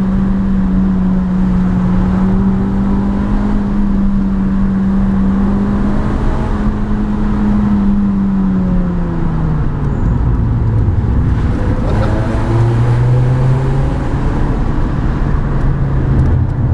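Renault Clio 197's 2.0-litre four-cylinder engine heard from inside the stripped-out cabin while driving, over steady road and tyre noise. The engine note holds steady for about eight seconds, then falls and settles at a lower pitch.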